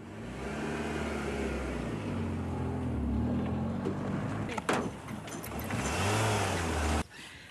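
Car engine running hard as the car drives off and speeds along, its pitch climbing and dropping several times with the throttle, with one sharp knock about halfway through. It cuts off suddenly near the end.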